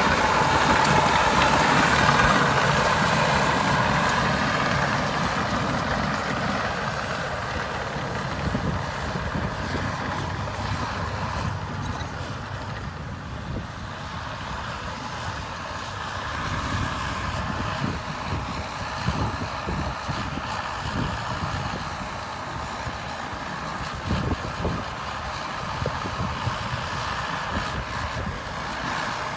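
Heavy diesel engine of a Caterpillar D6R bulldozer working, its level falling off after the first few seconds and rising again later. Scattered clanks toward the second half.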